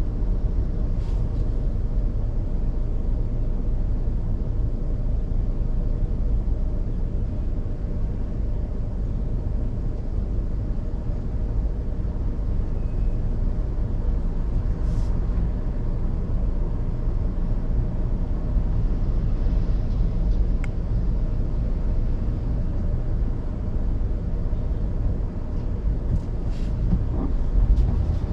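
A car driving along, heard as a steady low road and engine rumble that holds an even level, with a few faint brief clicks scattered through it.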